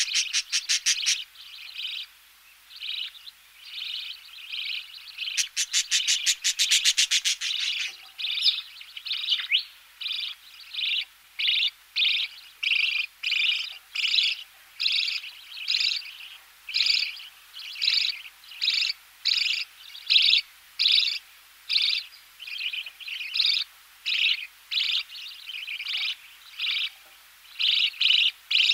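Budgerigar chicks begging in the nest as they are fed, close up: harsh, rapid buzzing calls at the start and again around six seconds in, then a steady run of short repeated chirps at about two a second.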